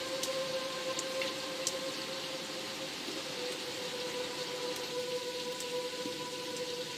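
Steady rain falling, with a few sharp single drops landing close by now and then. A steady low held tone, an ambient music drone, lies under the rain.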